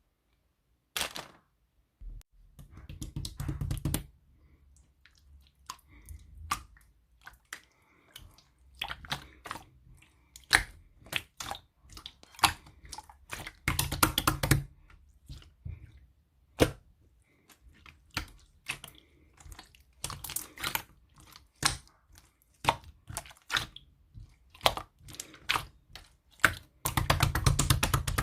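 Slime being squished and poked by hand, giving sharp clicks and pops that come now singly and now in dense crackling runs.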